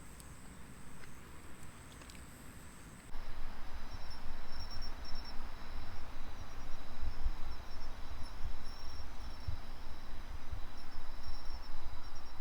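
Autumn insects chirping, with repeated short high chirps and a thin steady trill. About 3 seconds in, the sound gets much louder as an even hiss with low, uneven rumbling joins in.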